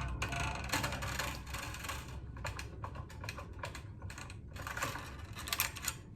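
Dense clicking and rattling from a bass guitar's strings and tuning machines as the strings are loosened and taken off.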